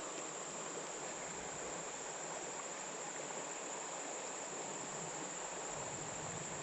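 Insects droning steadily on one constant high note, over an even hiss.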